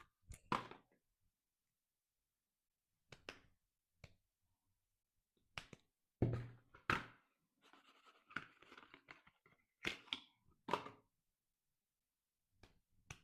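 Soap packaging being handled and opened: scattered short knocks and taps with brief tearing, rustling sounds of the wrapper, separated by stretches of silence. A longer rustle comes past the middle.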